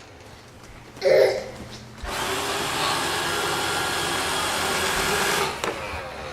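Roomba robot vacuum running with a steady whirring motor noise; it starts about two seconds in and cuts off about three and a half seconds later. A short loud sound comes about a second in, before the motor starts.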